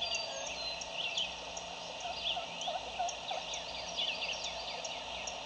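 A wild turkey gobbling very quietly, barely audible among many small songbird chirps.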